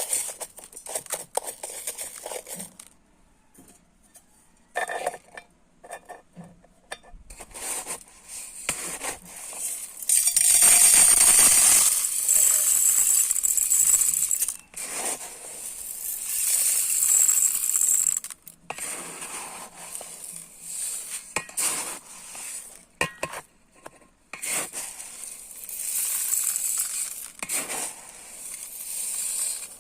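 Dry rice grains being scooped and poured into a container, several pours with a hissing rush, the longest and loudest about ten seconds in, with clicks and rattles of grains between pours.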